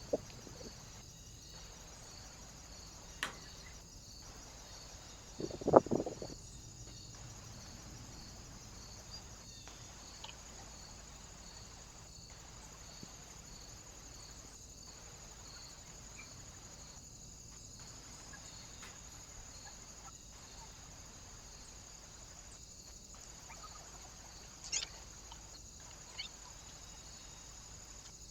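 Steady high electronic hiss from a trail camera's microphone. A few sharp knocks break it, the loudest a thump with a short rustle about six seconds in, and another pair near the end.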